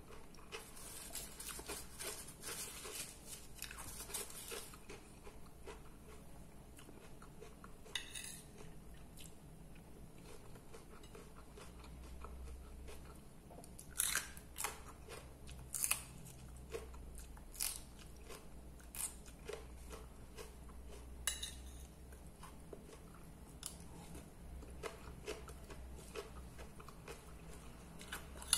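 Close-up chewing and crunching of a mouthful of salad: lettuce, cucumber and tomato. Short sharp clicks sound now and then from about halfway through.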